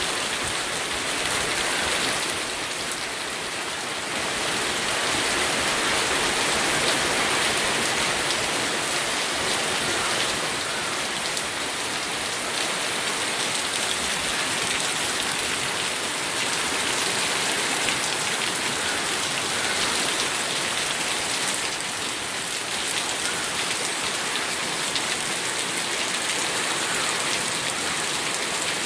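Steady rain falling on a surface, an even hiss of many drops with faint individual drop ticks.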